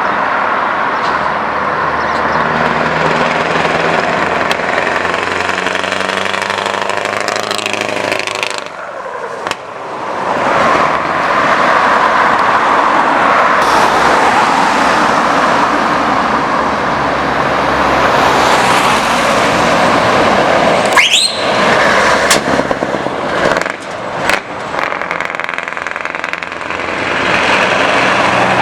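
Straight-piped Scania V8 truck engine pulling hard, its pitch rising for several seconds, then dropping away briefly at about nine seconds before coming back in loud and steady.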